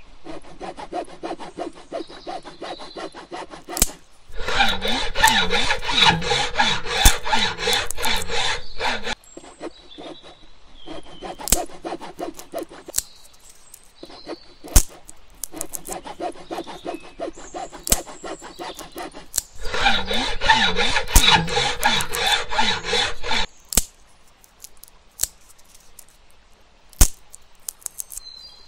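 Miniature chainsaw cutting dry wood: two loud stretches of cutting, about five and four seconds long, with a wavering motor pitch, and quieter sawing between them. Sharp clicks are scattered through.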